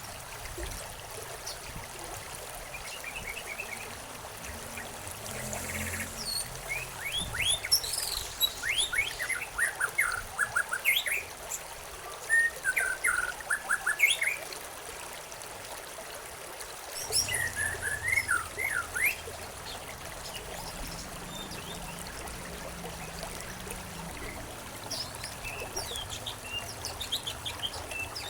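Small songbirds chirping in quick runs of short, downward-sweeping notes over the steady trickle of running water. The chirping comes in bursts through the middle and again near the end.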